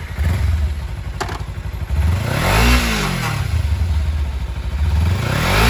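A 2013 Kawasaki Ninja 300's parallel-twin engine idles and is blipped twice: the revs rise and fall quickly about two and a half seconds in, and rise again near the end.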